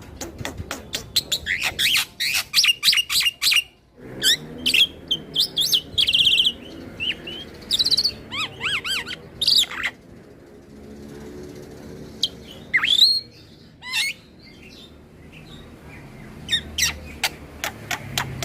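Black-winged starling (jalak putih) singing: quick runs of sharp chips and clicks mixed with whistled notes that glide up and down and short trills, broken by a couple of brief pauses.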